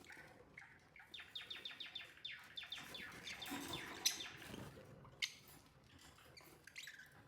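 Lovebirds chirping: a quick run of short, falling chirps for about two seconds, followed by a few scattered sharp calls.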